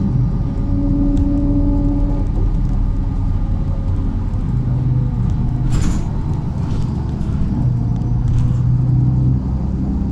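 MAZ-103 city bus driving along, heard from inside the passenger cabin: a steady low engine and drivetrain rumble with humming tones that shift in pitch. A short sharp noise comes about six seconds in.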